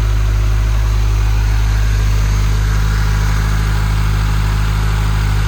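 2022 Subaru WRX's turbocharged flat-four boxer engine idling steadily, with a low, even hum and no change in speed.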